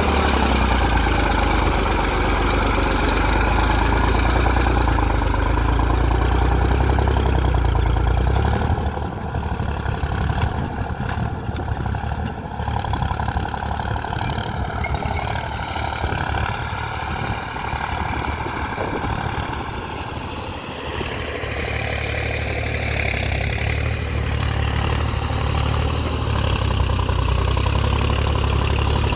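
Tractor diesel engine running steadily. Its deep rumble weakens about nine seconds in and comes back strong for the last several seconds.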